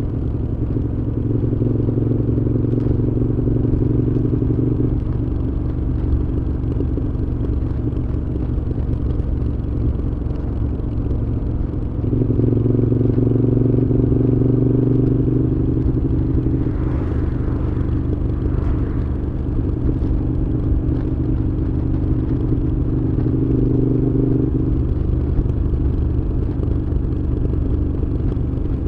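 Moto Guzzi V7's air-cooled transverse V-twin running through Mistral aftermarket exhausts while riding, a steady engine note that grows louder and eases off several times as the throttle is opened and closed.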